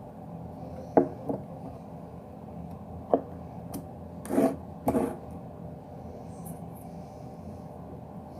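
Handling noise: a few sharp knocks, then two short rubbing scrapes, as something is moved and turned close to the microphone.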